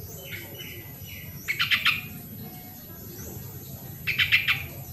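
Yellow-vented bulbul (trucukan) calling: a short bubbling burst of rapid notes about a second and a half in and another near the end, with fainter short chirps between.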